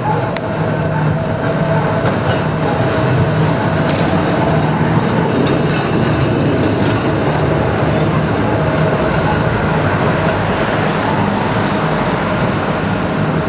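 Heritage electric tram running along street track, with a steady hum of the motors and rumble of the wheels. A couple of sharp clicks come near the start and about four seconds in.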